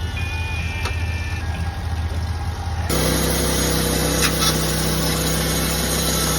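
Portable bandsaw sawmill's engine running steadily while milling a cedar log. About three seconds in, the sound abruptly becomes louder and hissier.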